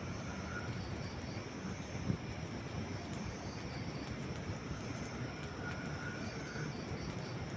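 Campfire burning: a steady low rumble with only a couple of faint snaps of the burning wood.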